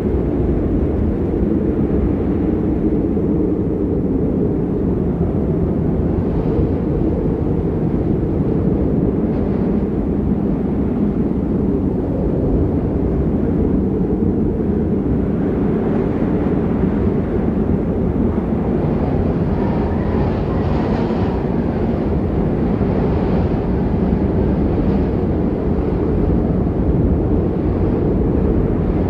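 Strong wind blowing on the microphone ahead of a storm: a steady low rumble with no engine-like tones, with faint gustier rushes in the second half.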